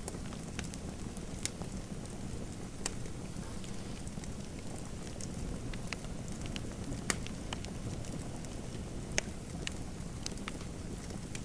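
Fireplace fire crackling: a steady low rush with scattered sharp pops, the loudest about seven and nine seconds in.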